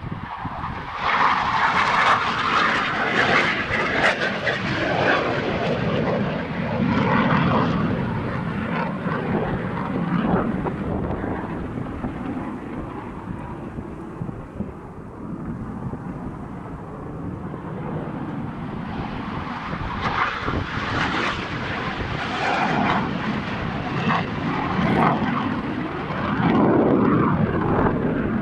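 Panavia Tornado GR4 jet, its twin RB199 engines giving a loud, noisy rumble. The noise swells in the first few seconds, dips around the middle, and builds again near the end.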